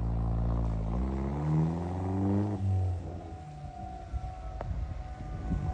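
A vehicle engine revving up, its pitch rising, then easing off about two and a half seconds in. After that a civil defense siren sounds with one steady tone.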